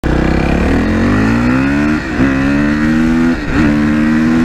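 Suzuki RM-Z 450 dirt bike's four-stroke single-cylinder engine accelerating hard. Its pitch climbs, then dips sharply about two seconds in and again near three and a half seconds as it shifts up through the gears.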